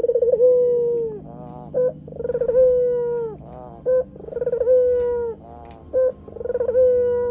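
White Barbary dove (ringneck dove) cooing over and over: each call is a short note followed by a long, wavering-then-steady coo that falls off at the end, repeated about every two seconds, four times.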